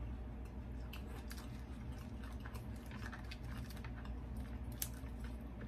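Chewing a mouthful of sushi roll: irregular soft, wet mouth clicks and smacks.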